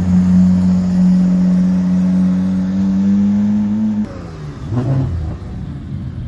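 Porsche engine accelerating hard, its note climbing slowly and steadily, then falling away suddenly about four seconds in. A short burst of engine sound follows about a second later, then a lower rumble.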